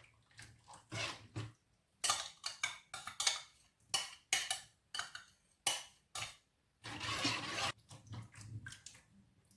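A metal spoon clinking and scraping against a pan in short, irregular strokes as frozen quark is dropped in and stirred into the sauce, with a longer scrape about seven seconds in.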